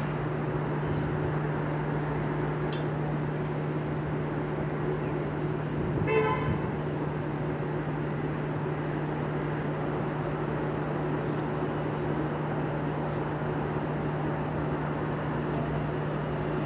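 A steady low hum from an electric train, with one short horn toot about six seconds in.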